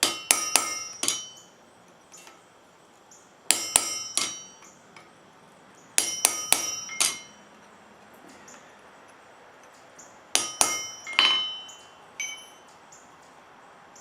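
Blacksmith's hammer striking forged wrought iron at the anvil in four quick clusters of three to five blows, each blow leaving a ringing metallic tone, then a lighter tap near the end. The blows work fine detail into the iron sunflower.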